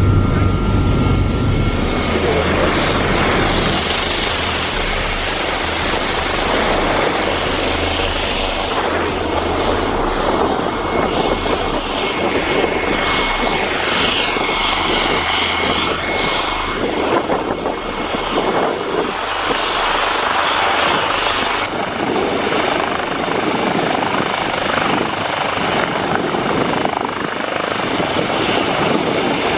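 Passenger helicopter in flight: a loud, steady rush of rotor and turbine noise with a thin high whine running through it.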